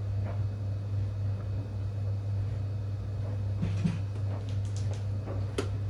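Whirlpool 3RLSQ8033SWD top-loading washing machine running with a steady low hum. A few light clicks come about midway, and a sharper click comes near the end.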